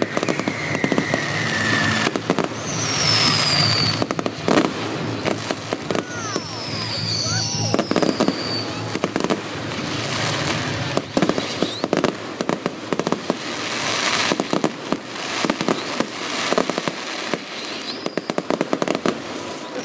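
Fireworks display: a dense run of bangs and crackling, with several falling whistles from whistling shells, over music playing in the background.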